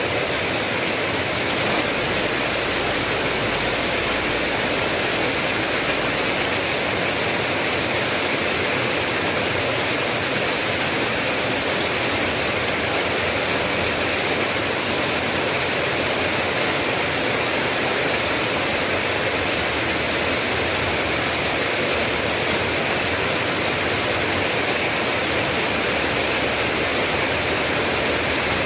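Steady, heavy rain falling, an even hiss of raindrops with no breaks.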